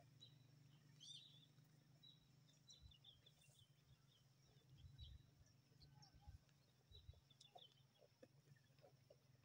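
Near silence, with faint, scattered chirps of small birds and a few soft low thumps.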